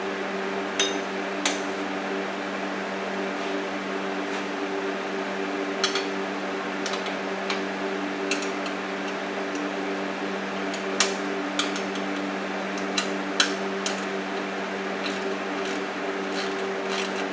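Wrench tightening nylon-insert lock nuts on the receiver's mounting bolts: scattered sharp metallic clicks and taps at irregular intervals. A steady background hum runs underneath.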